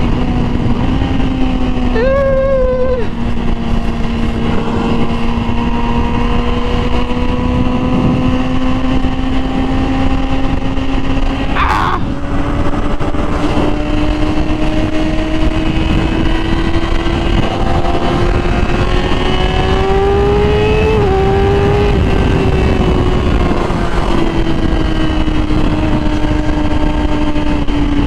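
Yamaha R6 inline-four motorcycle with a Graves exhaust cruising at steady revs. Its engine note climbs slowly for about twenty seconds, then eases back and holds steady, over rushing wind noise.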